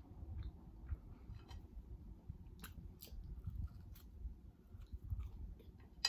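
A person chewing and biting food close to the microphone: scattered soft short clicks of the mouth at work, with one sharp click near the end.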